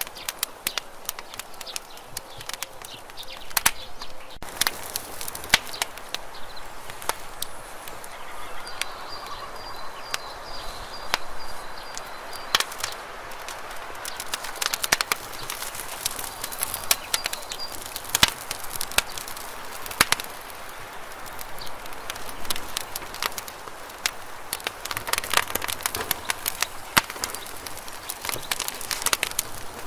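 Campfire burning: wood crackling and popping in irregular sharp snaps over a soft steady hiss of the flames. A faint thin high whistle comes and goes in the middle.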